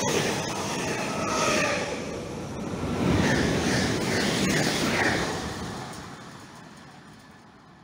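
Electric TER multiple unit passing at speed: the running noise of its wheels on the rails, with a few short high tones in the middle, dying away over the last few seconds as the train recedes.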